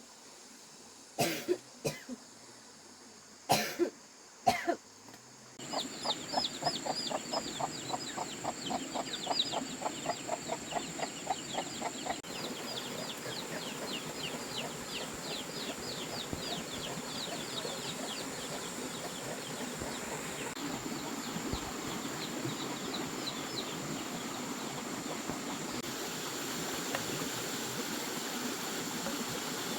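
A person coughs a few times. Then, from about five seconds in, chickens call in a rapid run of short repeated clucks and peeps over a steady hiss, which die away into the hiss near the end.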